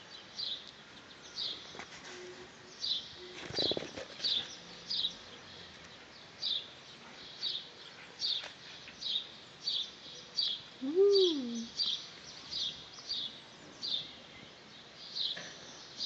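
A small bird chirping over and over outdoors, one short high chirp about every half second. About two-thirds of the way through, a brief lower whine rises and falls once, louder than the chirps.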